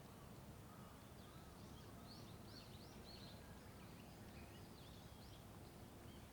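Faint birdsong: a quick series of short, high, arching notes through the middle, over a steady low rumble of distant road traffic.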